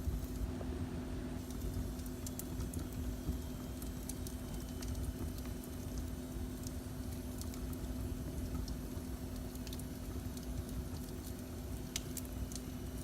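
Wood fire burning in a fireplace: a steady low rumble of flames with scattered sharp crackles and pops, over a steady low hum.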